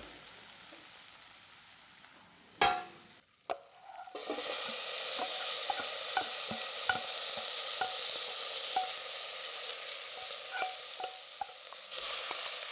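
Ingredients frying in a hot pot: after a quiet start and two sharp knocks, a loud sizzle sets in about four seconds in and runs steadily with scattered small pops.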